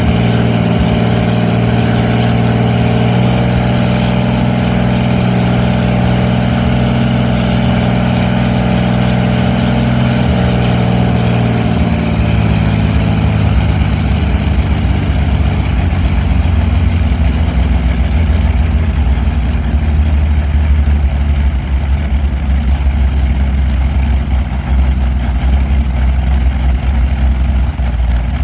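Allison V-1710 liquid-cooled V-12 aero engine running steadily on a demonstration stand. About twelve seconds in its note drops to a deeper, lower rumble.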